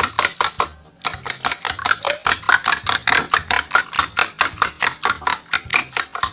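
Eggs being beaten by hand in a bowl: a fast, even clicking of the utensil striking the bowl, about six strokes a second, with a short pause about a second in.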